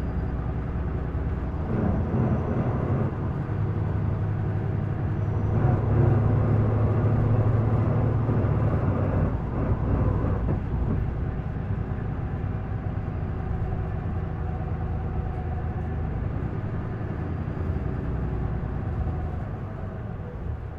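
Isuzu Erga PDG-LV234L2 city bus's diesel engine heard from on board, pulling hard and getting louder a couple of seconds in, strongest midway, then easing back to steady running and tailing off near the end.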